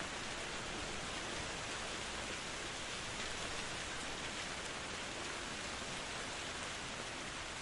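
Steady rainfall, an even hiss of rain with no distinct drops or thunder standing out.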